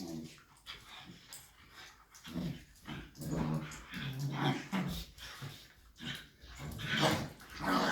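A Shiba Inu and a Bernese mountain dog puppy growling at each other in play, in short broken growls with the odd yip. The growls come thicker and louder over the last few seconds.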